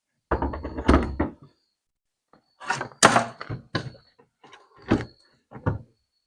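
A run of knocks and clunks from hard parts being handled and set down: a busy cluster in the first second and a half, then single knocks, the loudest about three seconds in.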